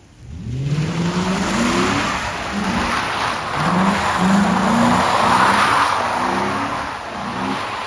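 Ford Crown Victoria Police Interceptor's 4.6-litre V8 revving hard in repeated surges, its pitch rising and falling, as the car spins donuts on wet pavement, with the hiss of spinning tyres on the wet surface. It starts loudly about half a second in.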